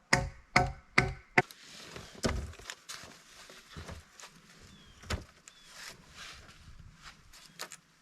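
Hand saw cutting wood with four quick strokes in the first second and a half, then scattered knocks and rustling as the cut pieces are handled.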